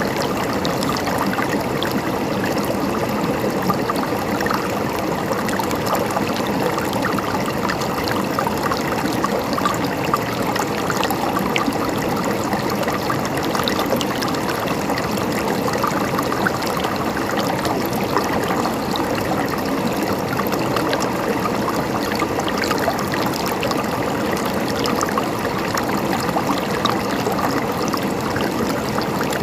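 Water flowing and gurgling steadily, a dense, even trickling with a fine crackle.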